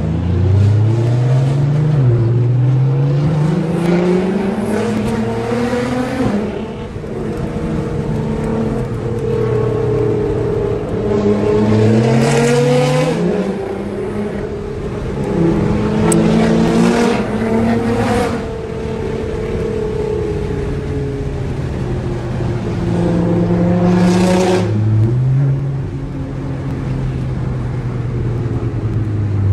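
Nissan GT-R R35 twin-turbo V6 engines accelerating hard through the gears, heard from inside a car's cabin. The engine pitch climbs and drops back at each upshift, several times over, with short bursts of noisy exhaust sound near the top of some pulls.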